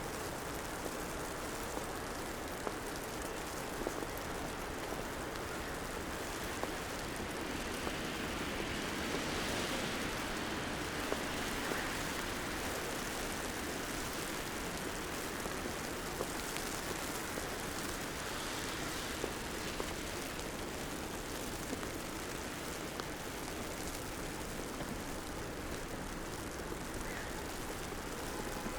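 Steady hiss of a wet, snowy city street, with a vehicle passing on the slushy road, swelling about eight seconds in and fading by about thirteen. A few faint scattered ticks sit over the hiss.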